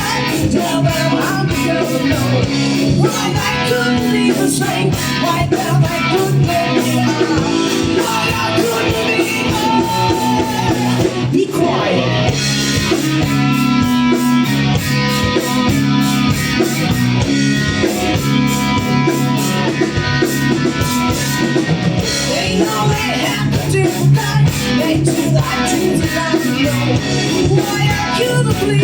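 Live rock band playing, with guitars and bass and some singing.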